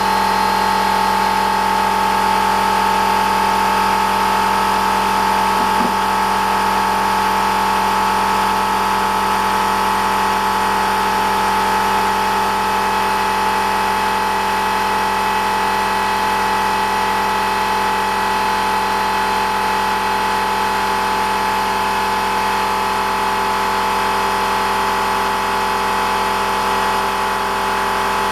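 Air compressor running steadily and very loud, a constant mechanical hum with no change in speed.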